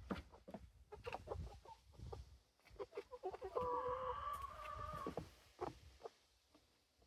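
Chickens clucking, with one drawn-out, steady-pitched hen call lasting about a second and a half near the middle. Short clicks and taps come before it.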